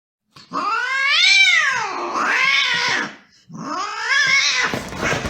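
Domestic cat caterwauling: two long yowls, each rising and then falling in pitch, the second starting about three and a half seconds in. This is the drawn-out threat yowl of cats squaring off in a fight.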